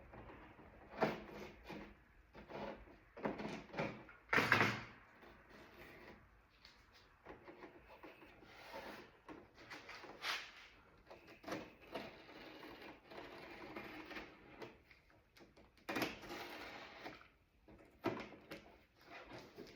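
Irregular scraping and handling noises from work on a car door panel, coming in short uneven bursts, the loudest about four and a half seconds in.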